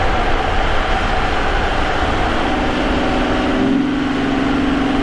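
Vauxhall Omega's 3.2-litre 24-valve V6 (Y32SE) running at a steady cruise, heard through a microphone in the engine bay near the K&N air filter, over road noise. A low steady note in the engine sound grows stronger about three-quarters of the way through.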